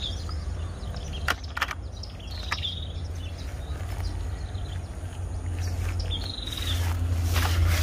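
Outdoor ambience: a bird repeating a short, falling chirp every few seconds over a steady low rumble. A few small clicks, and a louder rustle for about a second near the end.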